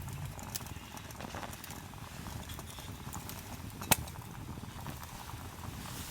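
Wood campfire crackling with irregular small clicks, and one sharp loud pop about four seconds in.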